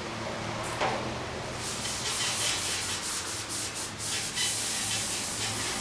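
Hand wet sanding of 2K high-fill primer on a steel van hatch with a hard sanding block: a small knock just under a second in, then rhythmic rasping back-and-forth strokes, about three a second.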